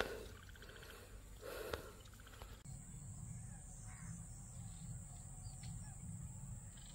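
A bird calling twice in the first couple of seconds, then only a faint, steady, high-pitched hiss.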